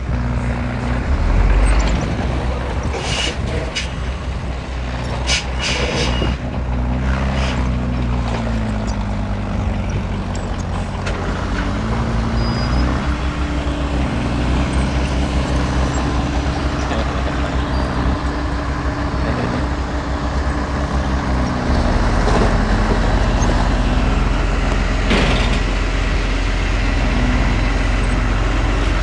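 Komatsu D20P bulldozer's diesel engine working under changing load, its pitch rising and falling, with several sharp clanks in the first few seconds. The low engine note grows heavier near the end.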